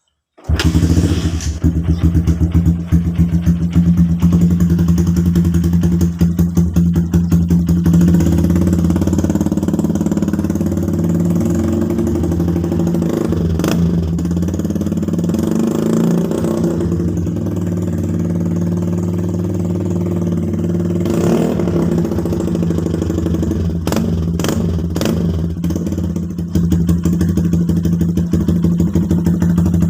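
Honda Verza motorcycle engine running through an aftermarket RCB exhaust, idling with repeated short throttle blips, most of them in the first several seconds and again near the end.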